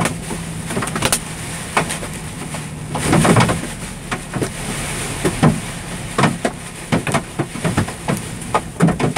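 Golf-ball-size hailstones striking a semi truck, heard as irregular sharp knocks, sometimes several a second, over the truck's steady low engine hum.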